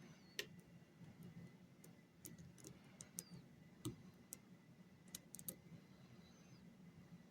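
Faint, irregular small metallic clicks and ticks of a lock pick working the pins inside a pin-tumbler lock, a few of them sharper and louder, over a low hum.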